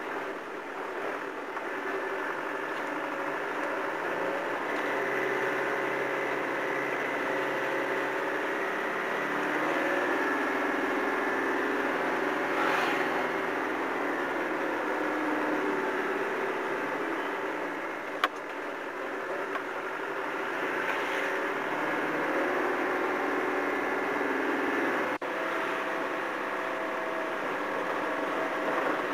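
Land Rover engine running under load as it climbs a steep, winding mountain road, its note shifting several times as the engine speed changes, with a single sharp click a little past the middle.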